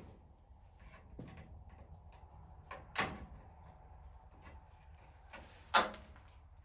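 Two sharp knocks, about three seconds and six seconds in, with a few lighter clicks between them: hand tools and metal parts being handled while fuel hoses and clamps are fitted to a truck's gas tank.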